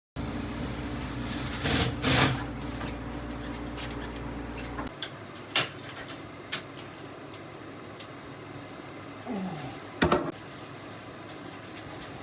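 A machine motor hums steadily with a couple of loud knocks, then cuts off suddenly about five seconds in; scattered clicks and knocks follow.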